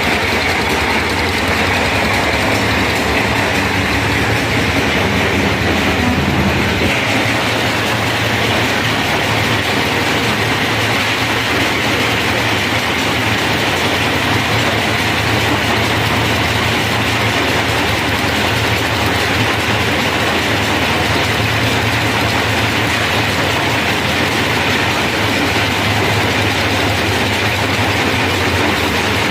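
Sonalika tractor's diesel engine running steadily with a mechanical rattle; the engine note shifts slightly about seven seconds in.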